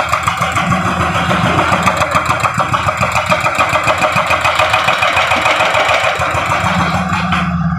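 Heavy road-working machine's engine running with an even rhythmic pulse, about six beats a second, which fades out shortly before the end.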